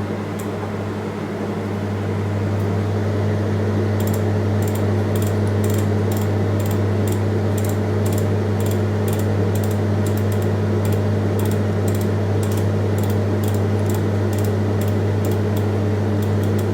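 LG 32 L charcoal convection microwave oven running in convection mode at 180 degrees: a steady electric hum from its fan and motor, a little louder about two seconds in. From about four seconds in it gives light, irregular ticks.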